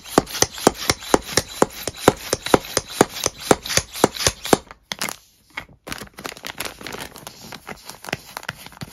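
Small hand pump drawing air out of a vacuum storage bag, worked fast at about four strokes a second. Each stroke is a sharp puff of air out of the pump's two holes. The pumping stops a little past halfway and gives way to softer, irregular clicks.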